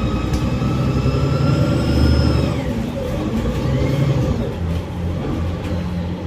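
Bus engine and transmission heard from inside the cabin, accelerating with a rising whine that peaks and drops away about two and a half seconds in. The engine then runs on at a lower, steadier note.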